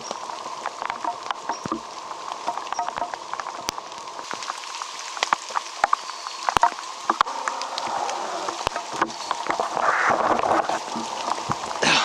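Rain falling steadily, with drops ticking sharply on a nearby surface, and a brief louder rustle about ten seconds in.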